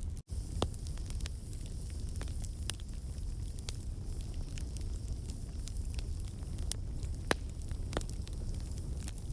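Wood campfire burning with a steady low rumble and irregular sharp crackles and pops from the logs. The sound drops out for an instant shortly after the start.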